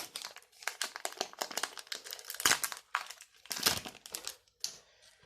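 Foil booster-pack wrapper crinkling as it is handled and worked open, in irregular crackly bursts, the loudest about halfway through.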